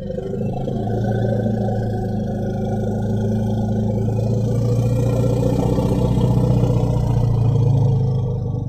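Sarcosuchus creature sound effect: one long, low, steady growl, swelling slightly in the second half.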